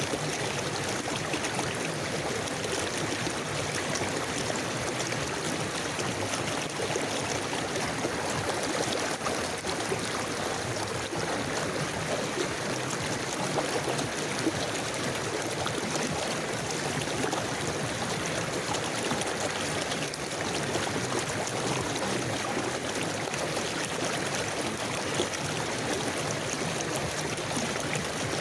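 River water flowing steadily, a continuous even rush of a stream.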